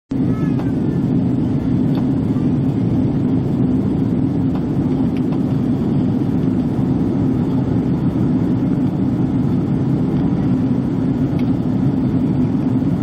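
Airbus A330-200 cabin noise on approach: a loud, steady low rumble of engines and airflow.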